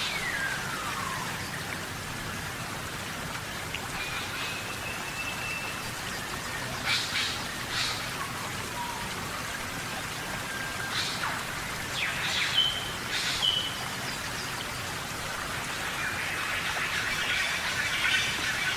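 Steady tropical rainforest rain hissing, with birds calling over it now and then: a falling whistle at the start, a few short sharp chirps in the middle, and a busier patch of calls near the end.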